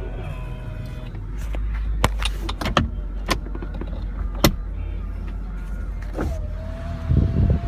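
2002 Ford Thunderbird's power convertible top running as it raises, with a steady motor hum and several sharp clicks and knocks from the top mechanism a couple of seconds in. A steady whine joins near the end.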